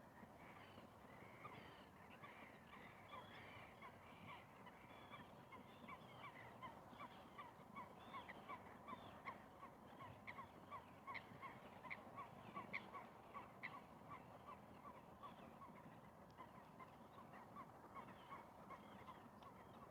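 Faint bird calls: a steady run of short calls, two or three a second, with higher chirps over them, loudest around the middle, above a quiet even hiss of outdoor ambience.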